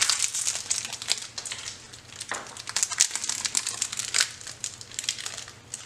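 Wrapper of a pack of salted crackers crinkling in irregular crackles as it is opened and the crackers are handled.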